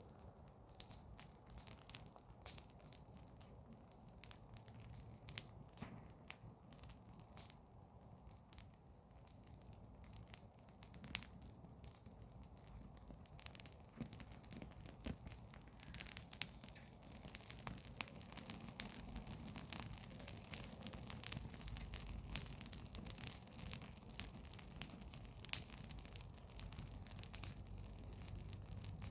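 Garden fire of burning wood and leaves crackling, with a steady scatter of sharp pops and snaps that come more often in the second half.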